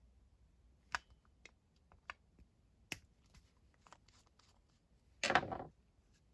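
Scattered light clicks and taps of small tools and metal carburettor parts being handled, with a louder half-second rustling burst about five seconds in.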